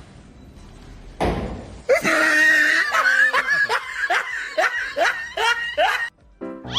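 Loud laughter: from about two seconds in, a quick run of 'ha' sounds, each falling in pitch, after a short noisy burst.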